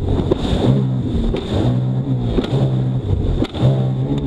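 Jet ski engine running under way, its note swelling and dipping again and again over the rush of water and wind.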